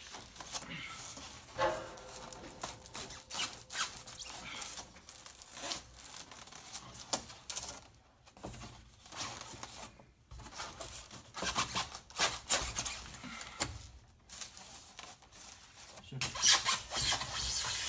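Rigid styrofoam insulation board squeaking and rubbing against the metal of a garage door panel as it is pressed into place, in irregular scrapes and creaks that are loudest near the end.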